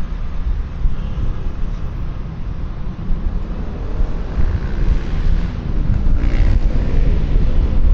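Wind rumbling on a helmet-mounted microphone over the engine and road noise of a QJMotor Fortress 160 scooter under way. The engine note climbs in pitch from about halfway through.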